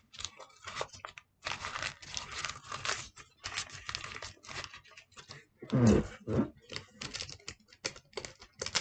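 Sheet of paper being crumpled and crinkled by hand into a ball, in irregular rustling bursts, with one louder, lower bump about two-thirds of the way through.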